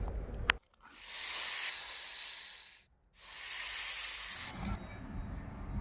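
Two loud hisses, the first about two seconds long and the second about a second and a half, each swelling in and cutting off abruptly, followed by a quieter low rumble.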